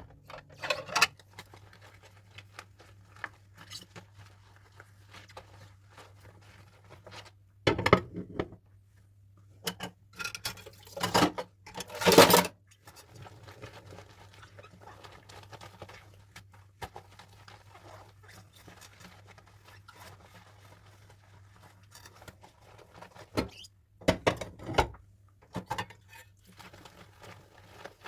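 Dishes and cutlery being handled while washing up, in scattered bouts of clinking and clattering with quiet gaps between, the loudest bout a little before halfway. A steady low hum runs underneath.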